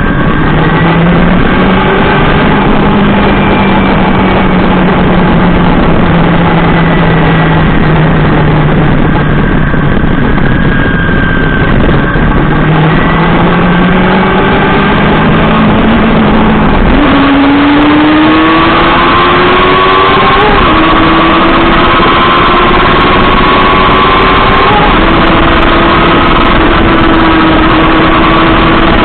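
Honda CBR400RR inline-four engine running under way, with heavy wind noise across the microphone. Past the halfway point the engine pitch climbs over a few seconds, dips once at a gear change and then holds steady at a higher pitch.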